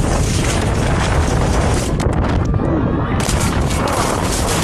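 Heavy wind buffeting the microphone: a loud, steady rumbling noise that thins out briefly a little after two seconds in.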